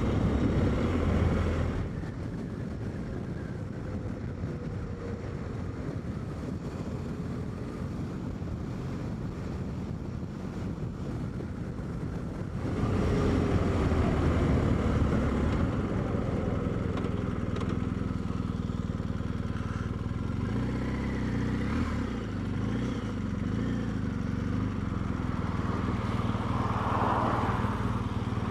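BMW R1250GS boxer-twin engine running as the motorcycle is ridden, heard from the rider's position. It gets louder for a few seconds about halfway through, then settles into a steadier, even note.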